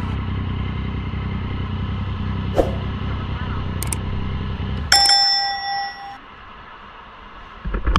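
Yamaha MT-09 engine idling steadily, then cut off about five seconds in, with a sharp click and a short ringing tone as it stops.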